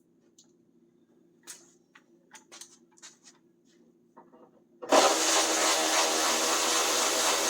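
A few faint light clicks of tools being handled. Then, about five seconds in, a power tool's motor starts suddenly and runs steadily at speed.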